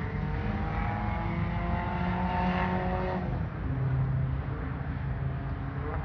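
Small hatchback's engine revving up as the car pulls away, its pitch rising steadily for about three seconds, then falling suddenly and running on at a lower, steadier note.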